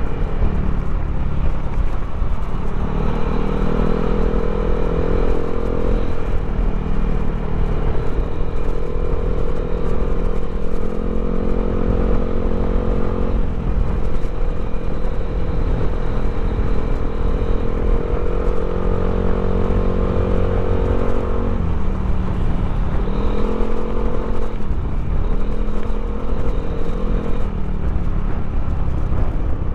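Yamaha Aerox scooter's single-cylinder engine, bored and stroked up to 200 cc, running steadily under throttle. Its pitch holds level for long stretches, then dips and climbs back twice near the end as the throttle is eased and reopened.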